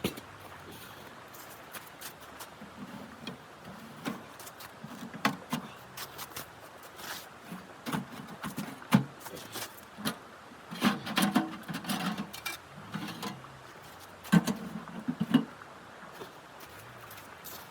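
Irregular knocks, clicks and dull thuds of objects being handled, in scattered clusters, busiest near the middle and about three quarters of the way through.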